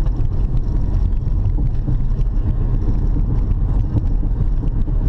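Honda Odyssey minivan on the move, heard from inside the cabin: a steady low road and drivetrain rumble with clunking knocks from a wheel. The clunking is the sign of loosened wheel nuts.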